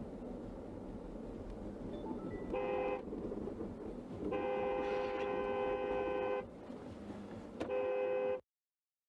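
Car horn honking three times: a short blast, then a long one of about two seconds, then another short blast, over the steady rumble of traffic. The sound cuts off abruptly near the end.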